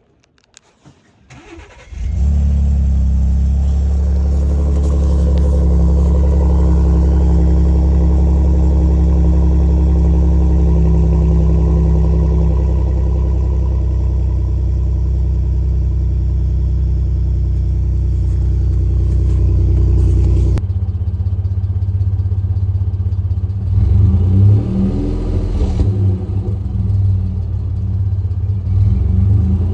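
Ford F-150's 3.5 L EcoBoost twin-turbo V6 starting about two seconds in, running through a valved Valvetronic universal muffler, and settling into a steady run. About twenty seconds in the exhaust sound drops abruptly and changes tone. From a few seconds later the engine is revved in short blips.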